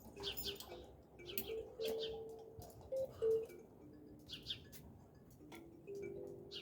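Kalimba plucked one note at a time in a slow, loose tune, each tine ringing on briefly, while small birds chirp again and again.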